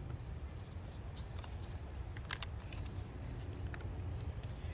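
Crickets chirping in steady, evenly repeated trains of short pulses, over a low rumble, with a few faint clicks.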